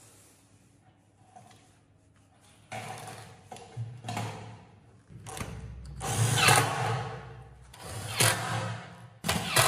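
Electric drill or screwdriver running in about five short bursts, starting about three seconds in; in the longer bursts the motor's pitch falls as it comes under load.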